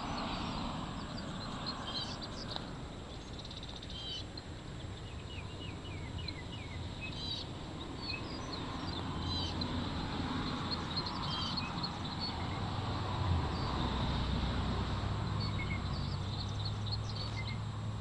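Small birds chirping and calling in short repeated notes throughout. A low steady hum comes in over the last few seconds.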